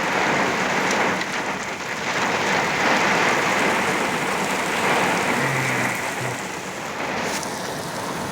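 Heavy thunderstorm rain pelting a vehicle's roof and windshield, heard from inside the cab as a dense, steady hiss that eases a little after about six seconds.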